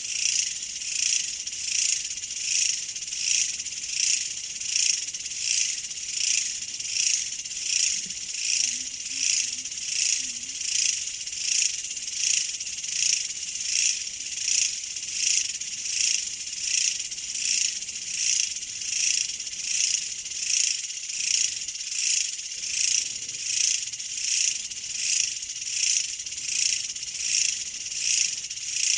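Insect chorus: a dense, high-pitched trilling that swells and fades evenly about once a second.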